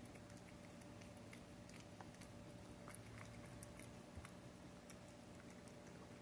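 Cat eating wet pâté-style food: faint, soft wet chewing and smacking, a run of irregular little clicks, over a low steady hum.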